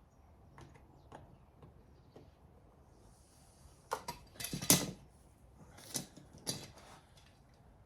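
Metal tools and engine parts clinking and clattering as they are handled, with a few light clicks, then a loud burst of clatter about four to five seconds in and two more sharp knocks shortly after.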